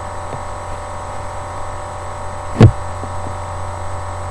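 Steady electrical hum made of several fixed tones. A single short, sharp thump about two and a half seconds in is the loudest sound.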